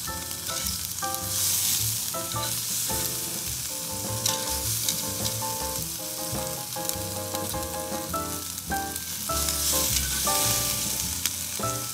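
Ribeye steak sizzling on a hot gas grill grate, its fat dripping and spitting onto the fire as the outside sears and the fat renders, with a few sharp clicks of metal tongs.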